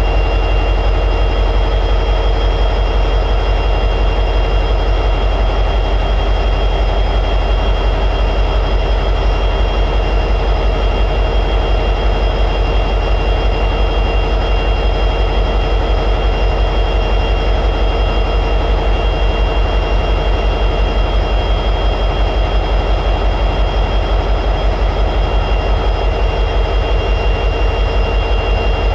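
EMD 710G3B 16-cylinder two-stroke locomotive diesel prime mover running steadily in high idle. A deep, rapidly pulsing rumble with a steady high whine above it.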